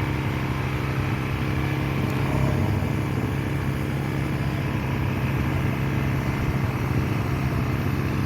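Suzuki DR-Z400's single-cylinder four-stroke engine idling steadily.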